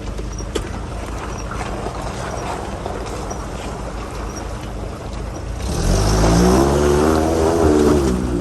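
Toyota 22RE four-cylinder engine of a 1985 Hilux pickup running as the truck drives, with light knocks and rattles. About two-thirds in it revs up louder, its pitch rising and falling.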